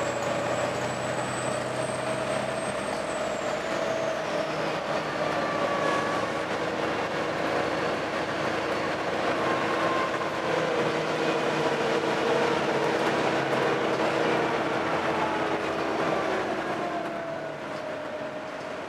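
Volvo B7TL double-decker bus's six-cylinder diesel engine running under way, with several whining tones that rise and fall with speed; a high whine slides down and fades a few seconds in. The sound eases off near the end. This is the bus uploaded for its weird engine noise.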